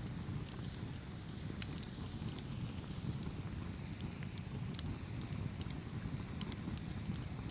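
Campfire burning with a steady low roar of flames and many sharp, irregular crackles and pops from the burning wood.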